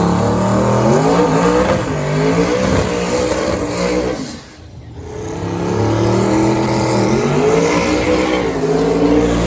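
Drag race car engines at full throttle on a drag strip, their pitch climbing and stepping back with each gear change. The sound drops away briefly just before halfway, then a second hard-accelerating run climbs through its gears.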